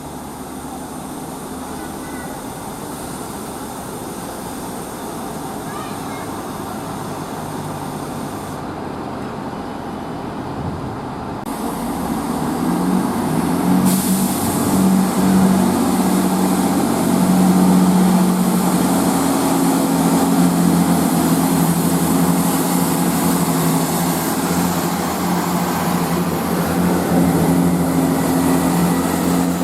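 A diesel train approaching and passing close: its engine note grows louder and then holds steady, with a rushing noise of wheels on rail joining about halfway in.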